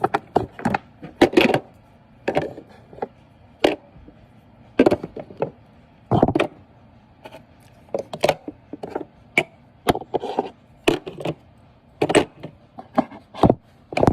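Irregular clicks, knocks and light clatter of skincare jars, tubes and bottles being handled and moved about in a small skincare fridge.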